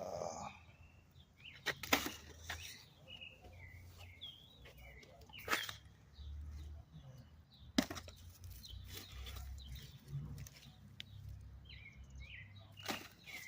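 Small birds chirping on and off throughout, with a few sharp knocks or clicks from handling nearby and a low rumble underneath.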